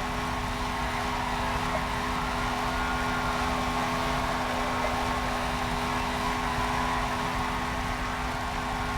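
A small car running steadily: an even rushing noise with a constant low hum and a higher steady tone, neither rising nor falling.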